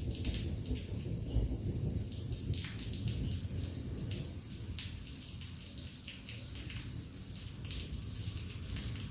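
Heavy rain falling steadily, with individual drops striking close by, under a low rumble of thunder that dies away over the first few seconds.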